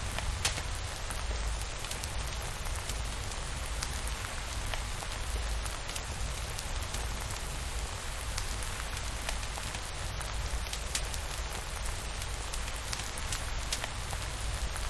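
Steady rain falling: an even hiss with scattered sharp ticks of single drops, over a low steady rumble.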